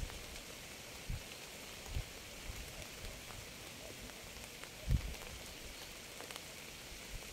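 Steady rain hiss with a few soft low thumps; the loudest comes about five seconds in.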